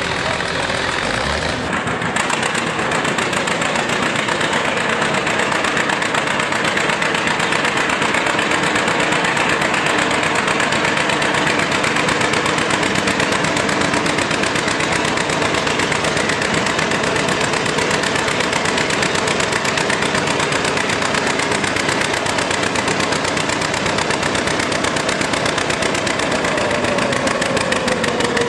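Old farm tractor engine running loud and steady with a rapid, even firing beat. Near the end one tone slides down in pitch.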